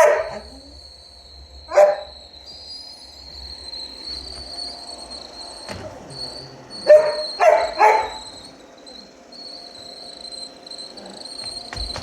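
A dog barking: a bark at the start, another about two seconds in, then three quick barks in a row about seven seconds in. A steady high-pitched whine runs underneath.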